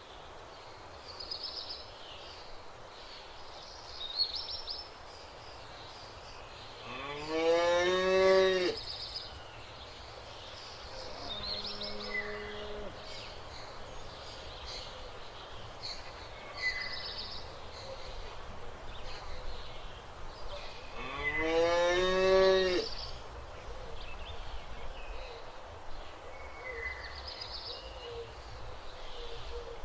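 Cattle mooing: two long, loud moos rising in pitch, about eight and twenty-two seconds in, and a fainter, lower moo around twelve seconds. Small birds chirp throughout.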